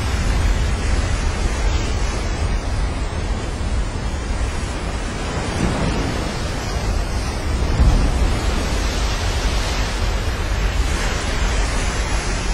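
Breaking ocean surf with wind buffeting the microphone: a steady noise, with a brief louder low rumble about eight seconds in.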